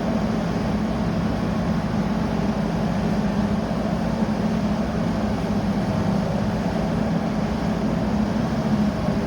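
Truck-mounted grinder running steadily: a constant machine drone with an even hum, no change in speed.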